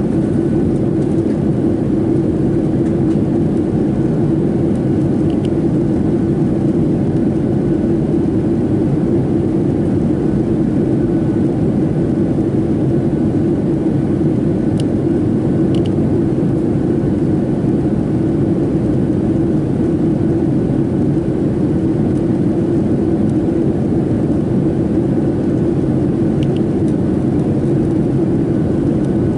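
Steady in-flight cabin noise of a Boeing 737-700 on descent toward landing: the even hum of its CFM56 engines and rushing airflow past the fuselage, with a faint steady whine above it.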